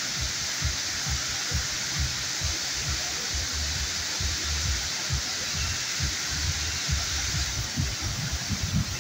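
Waterfall rushing steadily, with irregular low thumps underneath several times a second.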